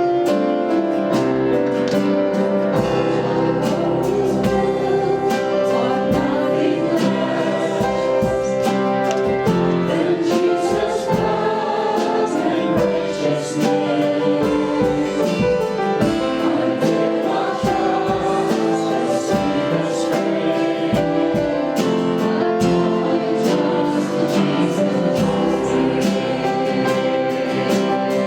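Congregational worship song: a group of voices singing with instrumental accompaniment and a steady beat.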